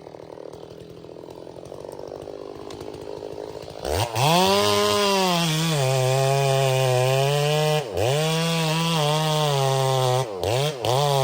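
Two-stroke chainsaw idling, then opened up to full throttle about four seconds in and run loud, cutting into a tree. Its pitch wavers and dips while it runs. Near the end the throttle is let off and opened again in several quick blips.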